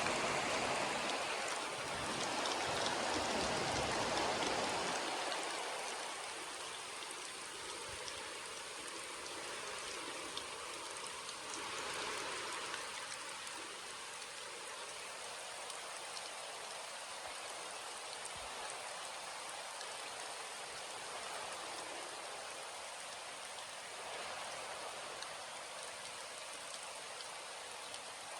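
Steady rain falling, with scattered drops ticking on a surface. A low rumble of thunder dies away over the first few seconds.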